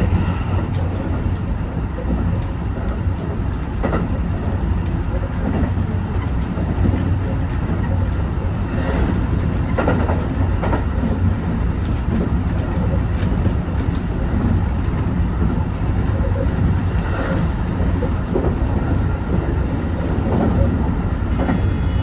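Train running at speed on the track, heard from inside the front of the car: a steady low rumble with scattered clicks and clunks of the wheels over rail joints. The train is an HB-E210 series hybrid diesel unit.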